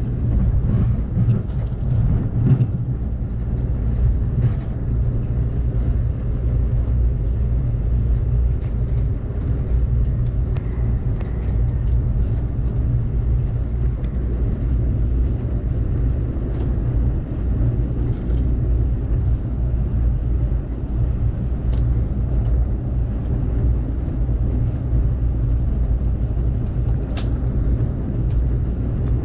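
Amtrak Cascades passenger train running at speed, heard from inside the coach: a steady low rumble of wheels on the rails, with a few faint sharp clicks scattered through it.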